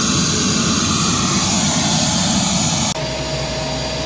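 Gazelle SA342M's Turbomeca Astazou turboshaft engine running steadily after start, with a whine and rush while the rotor brake still holds the blades stopped before rotor engagement. About three seconds in the sound drops abruptly to a quieter steady hum with a single tone.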